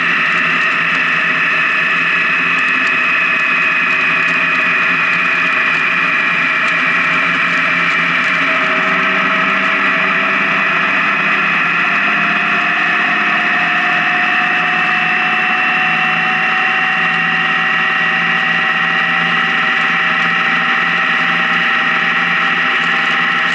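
Honda Gold Wing motorcycle cruising at highway speed: steady engine and drivetrain whine over a rush of road and wind noise. The pitch eases down slightly, then slowly climbs again over the second half.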